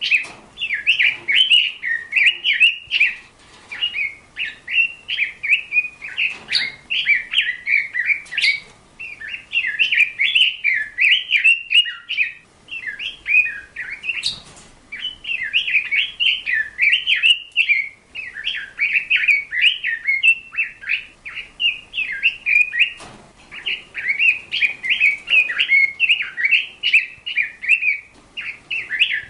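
A bird singing a fast, continuous warble of short chirps, broken by brief pauses every few seconds.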